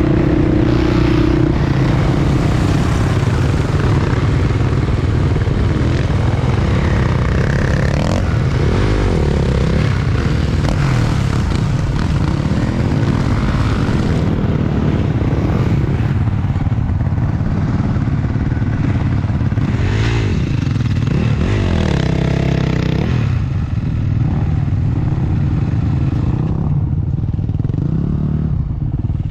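Motocross dirt bike engines running hard, the pitch rising and falling repeatedly as the throttle is opened and closed.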